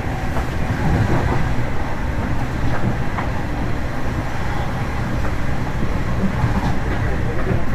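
Long Island Rail Road commuter train running, heard from inside the passenger car: a steady low rumble of wheels on track, with a few faint clicks.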